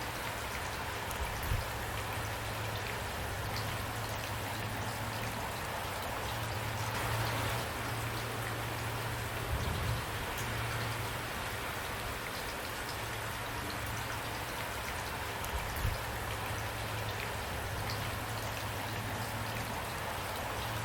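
Steady rain falling, an even hiss of drops with a low rumble underneath and a few short, louder knocks of heavier drops now and then.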